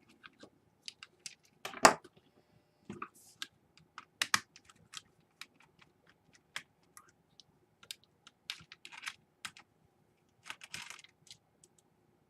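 Irregular small clicks and taps of plastic and metal laptop parts being handled as a hard drive is fitted into an open Dell Inspiron 11, with a sharper knock about two seconds in and another about four seconds in. A brief scraping rustle comes near the end.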